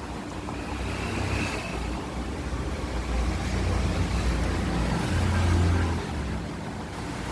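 Honda Activa scooter engine running, its low rumble building up to its loudest about five to six seconds in, then easing back.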